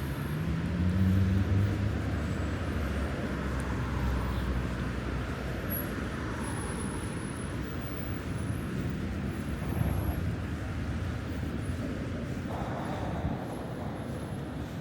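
Road traffic on a city boulevard: a passing vehicle's engine rises in pitch as it accelerates in the first couple of seconds, over a steady rumble of tyres and engines.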